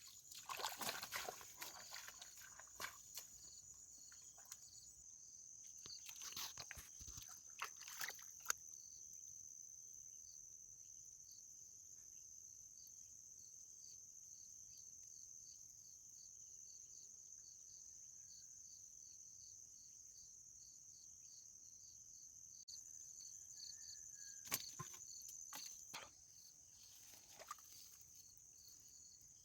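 Insects chirping steadily in a high, evenly pulsing drone, with a few scattered clicks and knocks near the start, in the middle and near the end.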